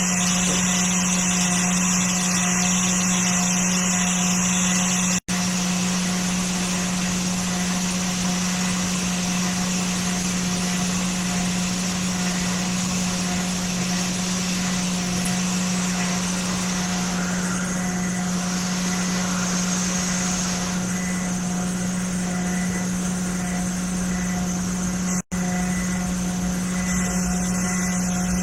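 Hot air rework gun blowing steadily with a constant electrical hum while desoldering a MOSFET from a motherboard. The sound drops out for a split second twice.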